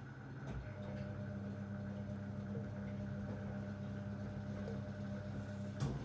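Zanussi DL22 washing machine running a 90 °C boil wash: a steady motor hum starts about half a second in and holds, with a sharp click near the end.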